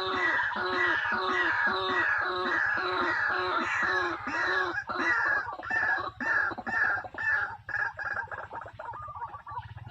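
A bird calling loudly: a fast series of harsh, arched notes, about three a second. About halfway through the notes turn shorter and more irregular, and they thin out near the end.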